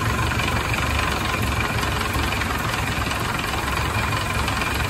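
Warmed-up Ford Model A four-cylinder flathead engine idling steadily with an even low pulse.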